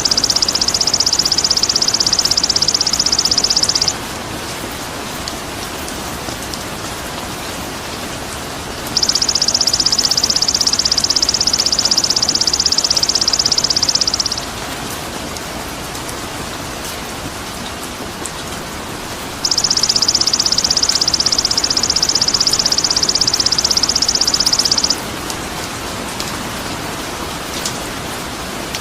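A high, rapid buzzing trill, held for about five seconds at a time, comes three times with gaps of about five seconds between, over a steady hiss.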